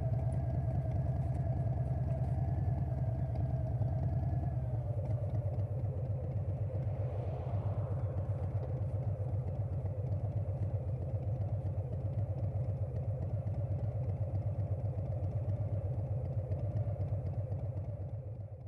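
2020 Harley-Davidson Softail Standard's Milwaukee-Eight V-twin through a Vance & Hines Big Radius 2-into-2 exhaust, running at low engine speed with an even beat of firing pulses. The deepest part of the sound drops away about four to five seconds in, and the sound fades out at the end.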